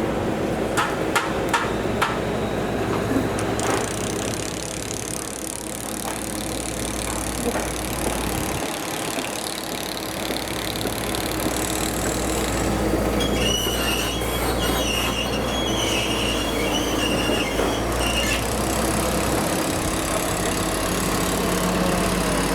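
A train running past with a steady rumble, its wheels squealing in high metallic tones for several seconds past the middle. Sharp knocks come near the start.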